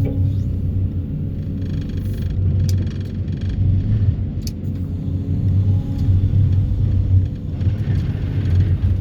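Excavator-mounted vibro hammer vibrating a steel sheet pile out of the ground, over the excavator's engine: a loud, steady, heavy low drone with a couple of brief sharp ticks.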